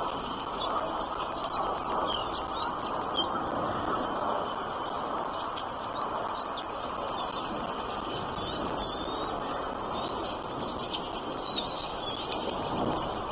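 Small birds chirping: short, high, quickly rising and falling chirps every second or two, over a steady rushing background noise.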